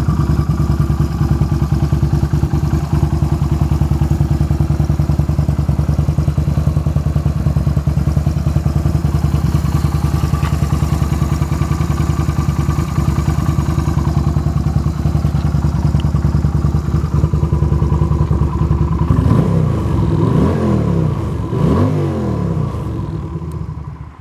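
Engine idling steadily with a fast, even pulse. Near the end it is revved up and back down about three times in quick succession, then cuts off at the very end.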